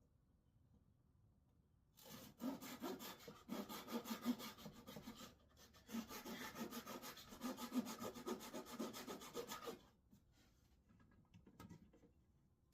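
Hand saw cutting wood in rapid back-and-forth strokes, in two runs with a short break between them.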